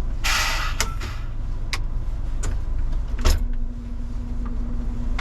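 Scania truck heard from inside the cab, its diesel engine running as a steady low rumble. There is a short hiss near the start and several sharp clicks. About three seconds in comes a thump, followed by a steady low hum.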